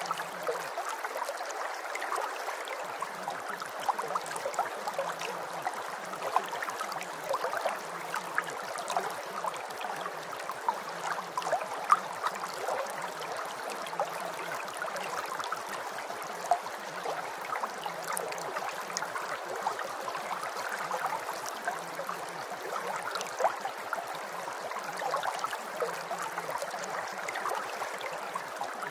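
Steady rain falling, an even hiss of many small drops pattering. A faint low pulsing repeats underneath about once a second.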